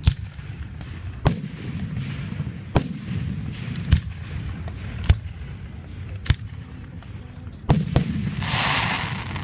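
Fireworks shells bursting in the sky: about eight sharp bangs, roughly one a second, with a short rush of hiss near the end.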